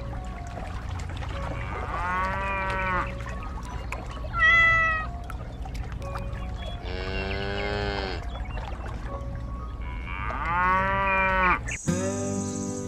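Cat meows, three arched calls spread through the clip, and one lower, longer cow moo in the middle, over a steady low background. Music begins near the end.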